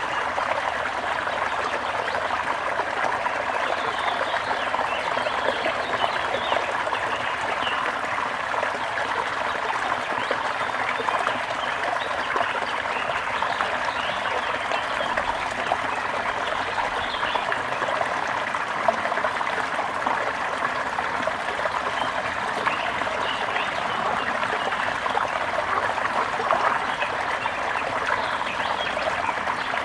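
Steady trickling of a small stream, with scattered bird chirps over it.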